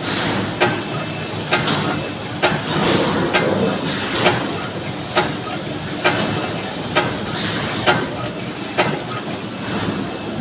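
High-speed ceiling fan insulation paper machine running: a steady mechanical noise with a sharp clack about once a second, one for each machine cycle.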